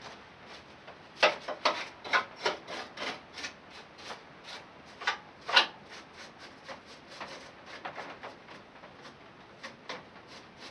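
A stiff brush scrubbing caked dirt off the mower's parts in short, irregular strokes, loudest in the first half and lighter toward the end.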